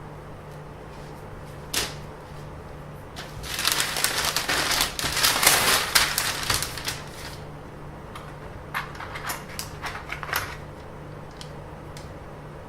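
Handling noise: a sharp click about two seconds in, then several seconds of dense rustling and crackling, followed by a run of lighter clicks.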